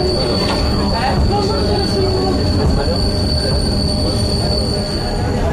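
Narrow-gauge train on the Genova–Casella railway running with a steady low rumble, under a high, steady wheel squeal that stops shortly before the end.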